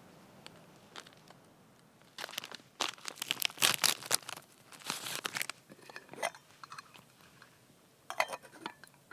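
Stiff, crinkly material being crumpled and handled in a run of rustling bursts from about two seconds in to six seconds, and again briefly near the end.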